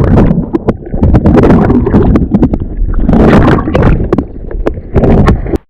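Wind buffeting the microphone in loud gusts, with many sharp knocks and rustles through it; it cuts off suddenly near the end.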